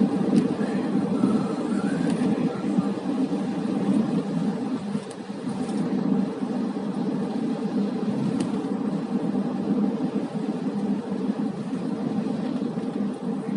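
Steady running noise of a car on the move, engine and tyre rumble heard from inside the cabin.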